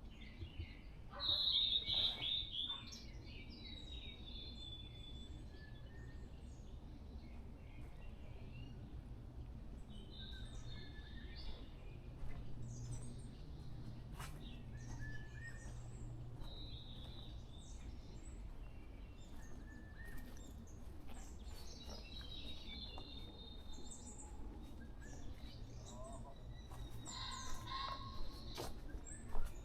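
Wild forest birds giving scattered short chirps and whistled calls, with a louder burst of calls about two seconds in and again near the end, over a steady low hum.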